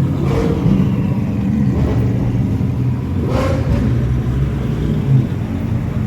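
Sports car engines rumbling at idle, with two short rev blips, one just after the start and one about three and a half seconds in.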